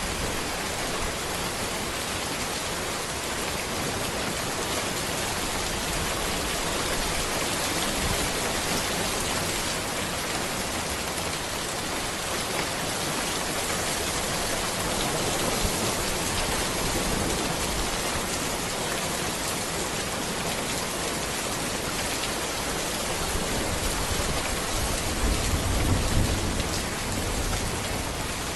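Steady heavy rain falling on a road, with a low rumble swelling near the end.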